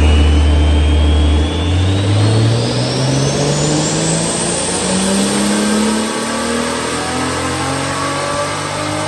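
Tuned Toyota 2JZ turbocharged inline-six in an 80-series Supra revving up. Its pitch climbs over the first five seconds and then holds high, and a thin high whine rises with it.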